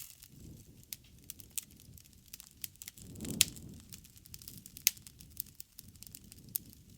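Wood fire crackling, with irregular sharp pops and snaps over a low fluttering rumble of flames; the two loudest pops come about three and a half and five seconds in.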